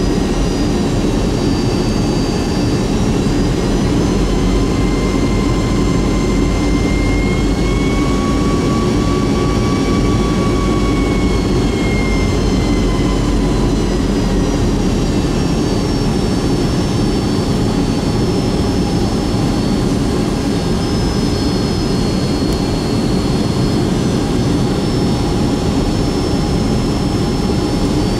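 Boeing 757-200's Rolls-Royce RB211 jet engines running, heard from inside the cabin as a loud, steady rumble with thin whining tones. The whine rises slightly about five seconds in and settles back down a few seconds later.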